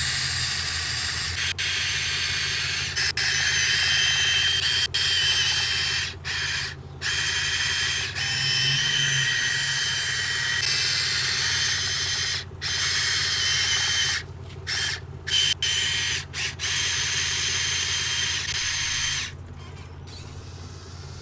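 Remote-controlled model excavator's electric hydraulic pump running with a high whine and hiss, cutting out and restarting several times in short breaks as the controls are worked, over a steady low hum. The whine drops away near the end.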